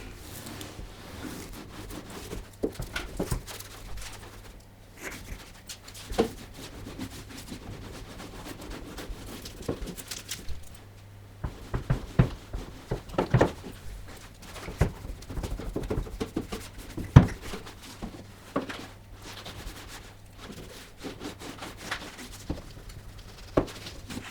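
Hand work at a workbench: irregular knocks, taps and rubbing, scattered unevenly through the stretch with a few louder clacks, over a faint steady hum.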